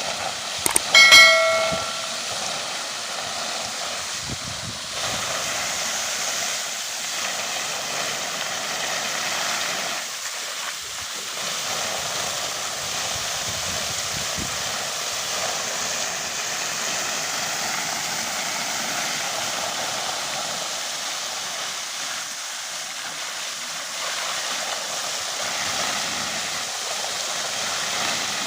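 Steady hiss of a jet of water spraying onto a tractor during a wash. A short high-pitched tone sounds briefly about a second in.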